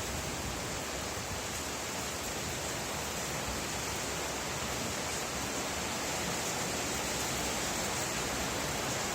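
Steady rain falling, an even hiss that grows slightly louder toward the end.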